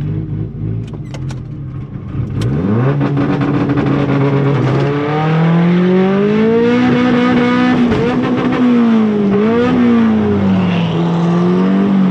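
Turbocharged 1.8-litre 20-valve four-cylinder engine of a Mk2 Golf, heard from inside the car, idling and then revving up about two and a half seconds in. The revs hold steady for a couple of seconds, then climb hard as the car launches, with brief dips as gears change and a drop in revs near the end.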